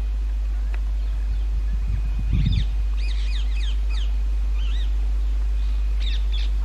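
Rose-ringed parakeets calling: a run of short, shrill squawks in the middle and another pair near the end, over a steady low hum.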